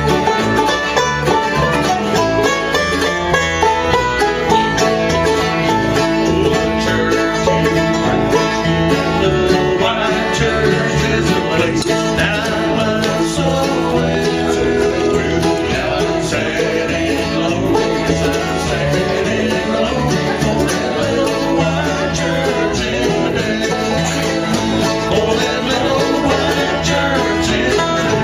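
Bluegrass band playing live: five-string banjo and guitar over upright bass and mandolin, steady and continuous.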